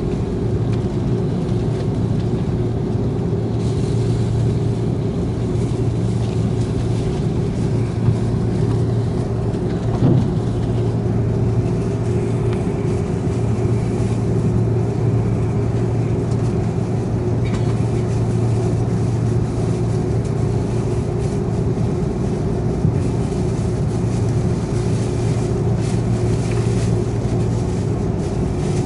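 Steady cabin hum inside an Airbus A330-300 airliner on the ground before takeoff, a constant low drone with a steady mid-pitched tone over it. There is a single brief knock about ten seconds in.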